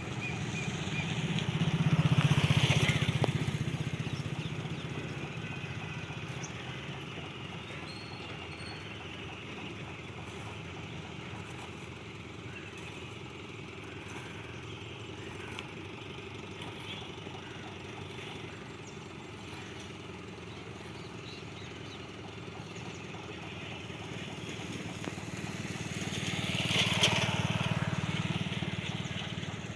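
Engine running steadily with a low hum, swelling twice to loud passes, about two seconds in and again near the end, each building and fading over a few seconds.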